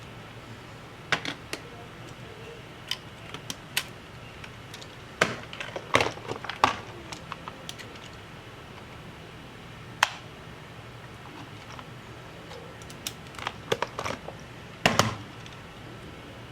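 Irregular sharp clicks and taps of small tools and parts handled on an opened MacBook Pro laptop, in scattered clusters with a loud single tap about ten seconds in, over a faint steady low hum.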